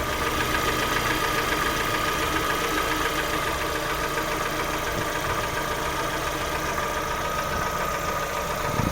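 Lada Vesta engine idling steadily with a knock from the top end, which the owner takes for camshaft knock. A steady high whine runs under it.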